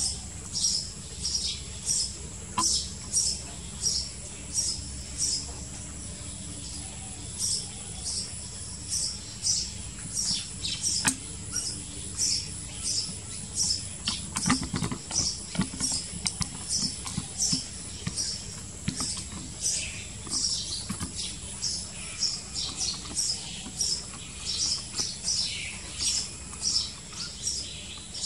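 Small birds chirping over and over, short high chirps about two a second, with a few soft rustles and thumps about halfway through.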